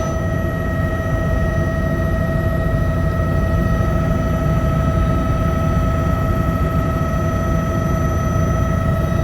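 Helicopter in flight: a steady low rumble of engine and rotor with a steady high whine over it.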